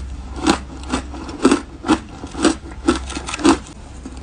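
Mouthful of shaved ice being chewed: crisp crunches about twice a second, coming a little faster near the end.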